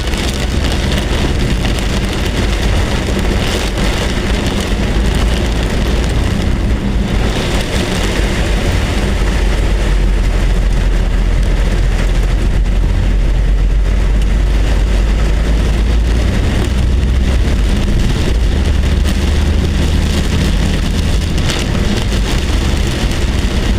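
Heavy rain falling steadily, a dense even hiss, with a strong low rumble underneath.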